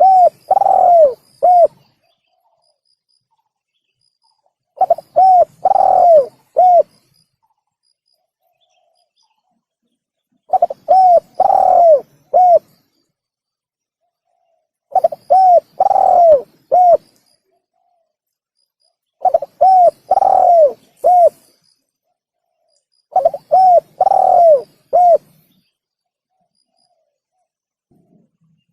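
Spotted dove (tekukur) cooing, played as a lure call. The same phrase of three or four coos repeats six times, about every four to five seconds, with complete silence between phrases.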